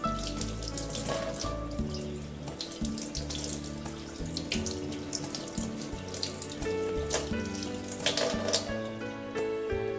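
Tap water running and splashing over an aloe vera leaf as it is washed under the faucet, with background music playing throughout.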